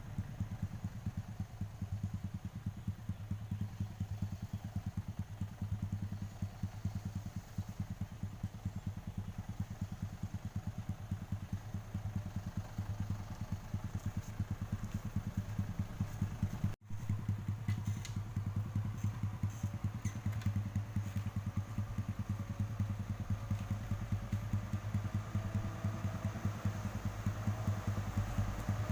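Diesel engine of a sugarcane-laden truck running steadily with a fast, even low throb. The sound cuts out for an instant about two-thirds of the way through, then carries on.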